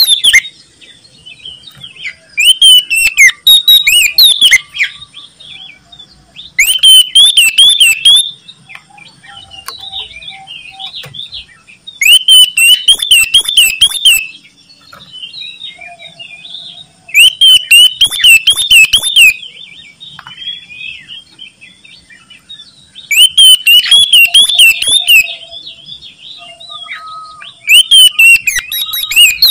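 Oriental magpie-robin (kacer) in full loud song: about six bursts, each a rapid run of repeated whistled and harsh notes lasting a couple of seconds, every four to five seconds, with soft calls in the gaps. This is the excited, loud 'gacor' song used as a lure to set other kacer singing.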